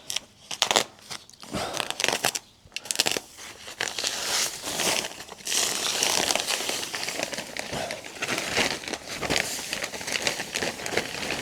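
Soft-headed brush sweeping dry kiln-dried sand across block paving, rasping in separate strokes for the first few seconds and then more continuously.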